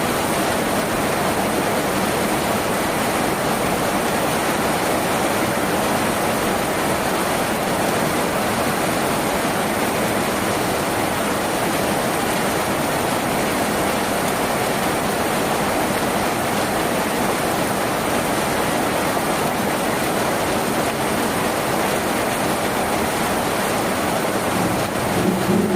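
Steady, heavy rain drumming on a tin roof, an unbroken rushing patter.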